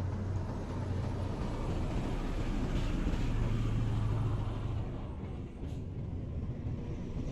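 Low, steady rumble of a running vehicle engine.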